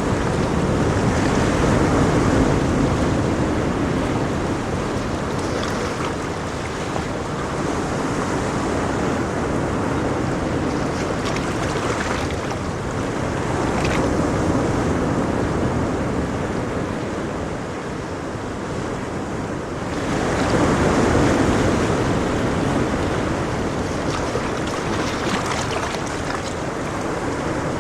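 Ocean waves breaking and washing in a continuous surf, swelling and easing every several seconds, with the biggest surge a little past the middle.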